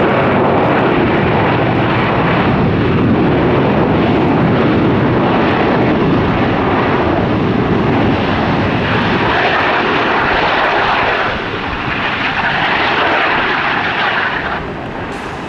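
Jet airliner passing close, its engines making loud, steady noise. The noise shifts toward a higher hiss in the second half and drops off near the end.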